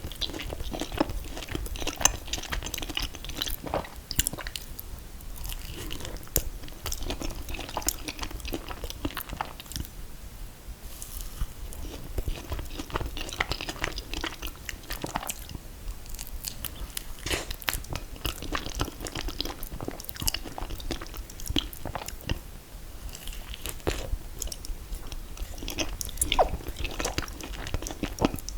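Close-up eating sounds: chewing and biting into ice cream cake of confetti cake and mint chocolate chip ice cream. There are many short, sharp mouth clicks and smacks, coming irregularly several times a second.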